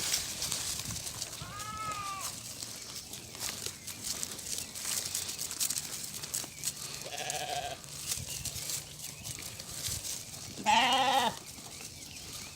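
Xalda sheep bleating three times, the last bleat the loudest, over a crackling rustle of olive leaves and twigs being browsed.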